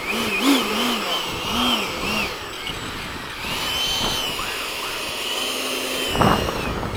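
Electric ducted-fan RC jet whining in flight, its high pitch wavering up and down with the throttle. A brief loud burst comes about six seconds in.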